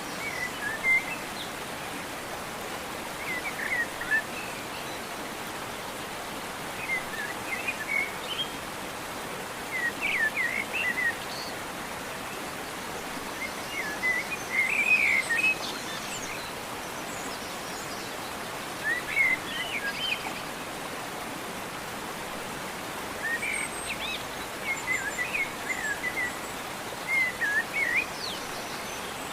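Birds chirping in short bursts of quick rising and falling notes every few seconds, over a steady hiss of outdoor background noise.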